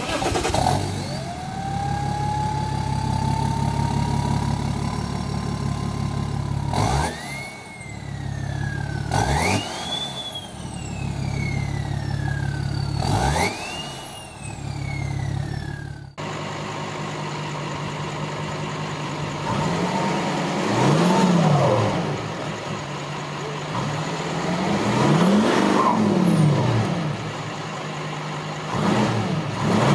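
Turbodiesel engine revved in bursts, its turbo whistle jumping up sharply with each blip and falling away slowly, three times. About halfway through it cuts to another diesel engine being free-revved, its note rising and falling about four times.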